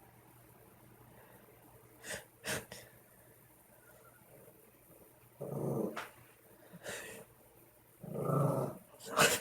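Dog growling in two short, low bursts, about halfway through and near the end, with a few sharp clicks and rustles around them; a warning from a dog annoyed at having its rear cleaned.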